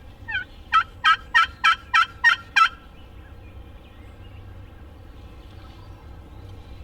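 Turkey yelping: a couple of soft lead-in notes, then a run of seven loud, evenly spaced yelps at about three a second that stops abruptly. This is the hen yelp used to draw a gobbler in.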